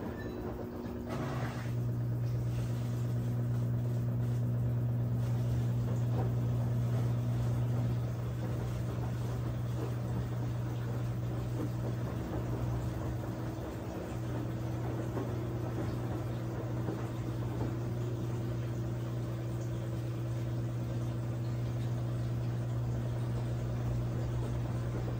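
Brastemp 17 kg washing machine running with a steady low motor hum that sets in about a second in and holds, with a slight change partway through.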